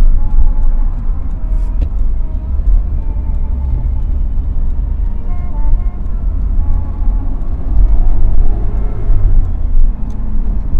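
Inside the cabin of a BMW 316i E30 wagon driving along: the four-cylinder engine and road noise make a loud, steady low rumble, with faint short higher tones coming and going above it.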